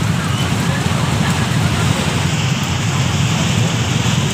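Heavy rain falling steadily on a crowded street, an even hiss over a dense low rumble.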